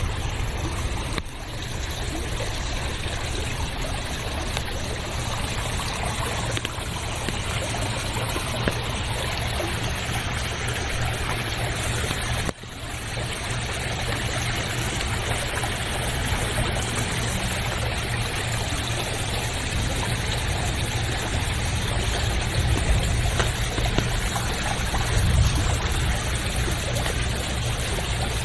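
Steady rush of running water from a stream or river, with two brief dips in level, about a second in and near the middle.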